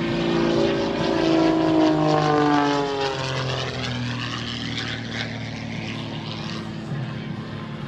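Propeller airplane flying low past, its engine note loud and sliding down in pitch as it goes by in the first few seconds, then fading as it moves away.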